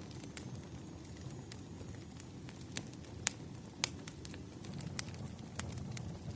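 Campfire crackling: a steady low rumble of burning wood with irregular sharp pops and snaps, two of them louder, a little after three seconds and just before four.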